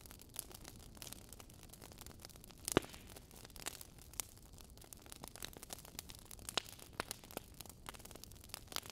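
Wood fire crackling in a fireplace: quiet, irregular pops and snaps over a faint hiss, the loudest pop about three seconds in.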